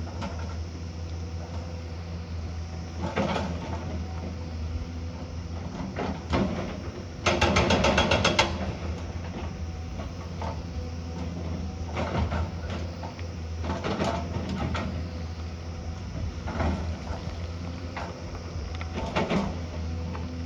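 Heavy construction machine's diesel engine running steadily, with scattered knocks and clanks and a rapid rattle lasting about a second, about seven seconds in.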